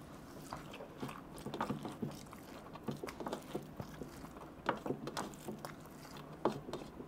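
Soft chewing and wet mouth smacks of a person eating a handful of vegetable pulao by hand, made up of many small, irregular clicks.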